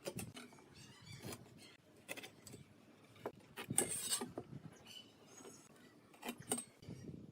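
Workshop handling sounds: scattered light knocks and clicks of wood and tools being handled, with a short scraping rub about four seconds in.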